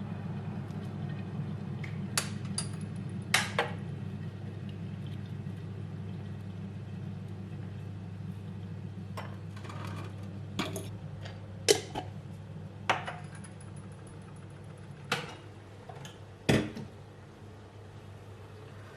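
Scattered clinks and knocks of dishes and utensils, about ten sharp hits, a few ringing briefly like glass or china, over a steady low hum.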